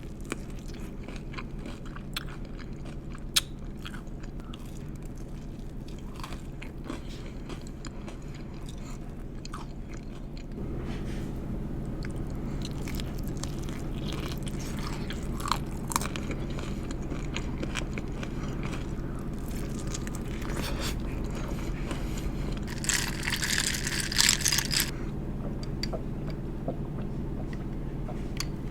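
Close-up eating of sauced chicken wings: scattered biting clicks and chewing, with a louder stretch of crunching near the end, over a steady low hum.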